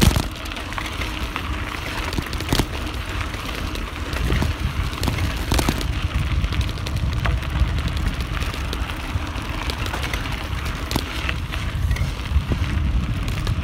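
Bicycle rolling fast downhill: steady wind rumble on the phone's microphone mounted on the bike, with tyre noise and sharp rattles and knocks from bumps in the track.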